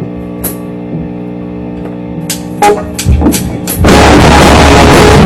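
Rock band practice: a held electric guitar chord rings, with a few sharp drum hits that come faster near the end. About four seconds in the full band comes in very loud and harsh, the recording pinned at full level and distorting.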